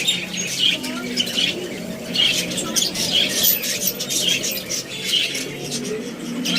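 A group of caged birds squawking and calling, many short calls overlapping one another without pause.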